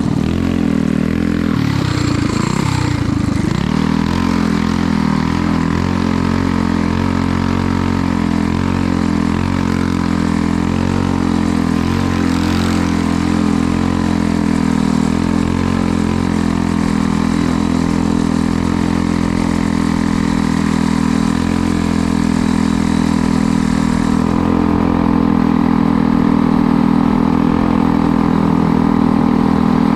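Engine of a ridden motor vehicle running steadily at speed, with a brief shift in pitch about two to three seconds in and getting a little louder near the end.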